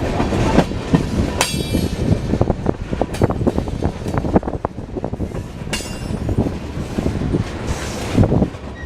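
Train cars rolling past, steel wheels clacking over rail joints, with two brief high-pitched wheel squeals, about a second and a half and six seconds in.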